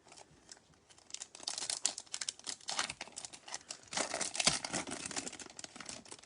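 Foil wrapper of a Bowman Chrome trading-card pack being torn open and crinkled in the hands, a dense run of crackles starting about a second in.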